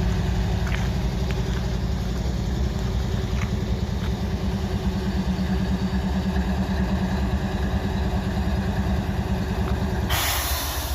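GE ES44AH diesel locomotive's V12 engine running steadily with a low, even rumble. A burst of hissing comes in near the end.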